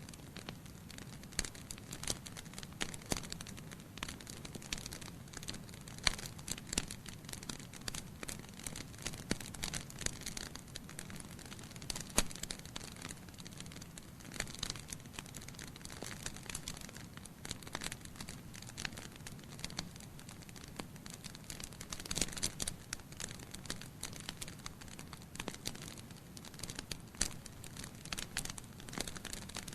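Wood fire burning in a fireplace, with a steady low rush of flames under irregular crackles and snaps from the logs, a denser run of crackling about two-thirds of the way in.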